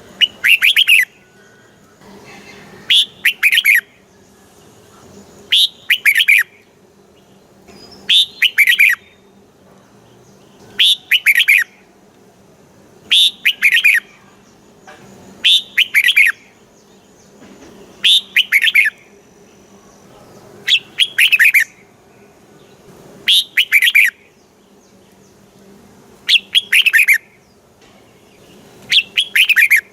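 Red-whiskered bulbul singing: a short phrase of quick, falling whistled notes, repeated about every two and a half seconds, over a faint steady hum.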